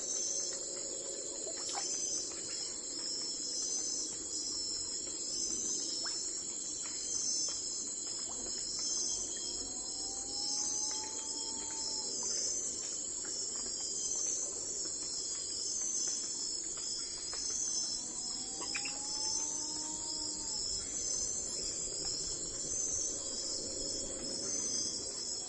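Steady chorus of crickets chirring with a fast pulsing trill. Three or four faint, long whistles slide up in pitch and back down over it.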